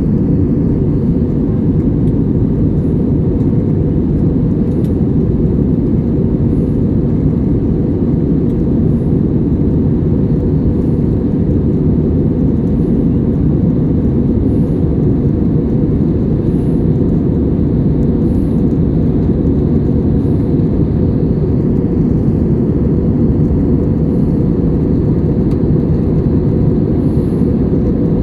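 Steady low rumble of an Airbus A320-200's jet engines and airflow as heard inside the passenger cabin, unchanging throughout.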